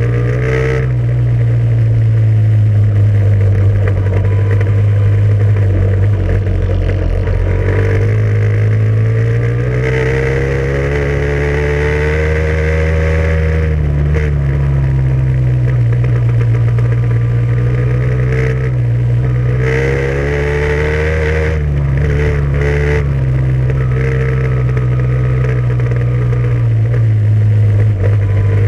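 Vehicle engine running continuously and loud, its note climbing with the throttle twice and dropping back each time.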